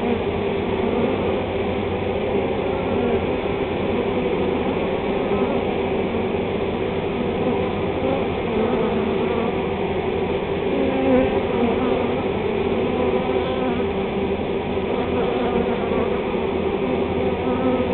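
Honey bee swarm buzzing, a dense steady hum of many bees flying around the hive as they move in.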